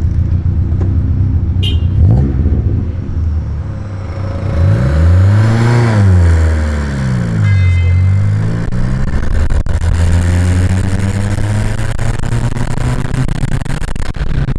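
Engine of a homemade open exo-car with a free-flow downpipe exhaust, running while the car drives. The engine note climbs about four seconds in, drops back, climbs again and then holds steady.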